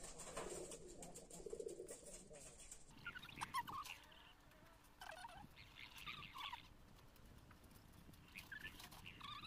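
Faint birds chirping in short clusters of quick calls, starting about three seconds in and returning twice more, over a low faint murmur in the first two seconds.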